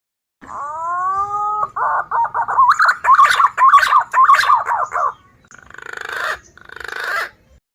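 Wild green pigeon (punai) call played as a lure: a rising whistled note, then a run of quick warbling, wavering notes, ending in two short rasping notes.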